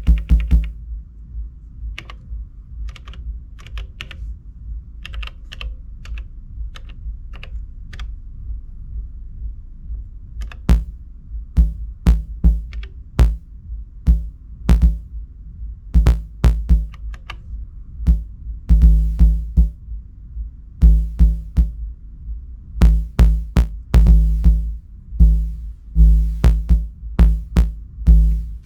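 Elektron Digitakt playing an improvised, off-grid bass line: deep bass notes in an uneven rhythm mixed with short sharp clicks. It starts sparse and quieter, then grows denser and louder from about ten seconds in, heaviest in the second half.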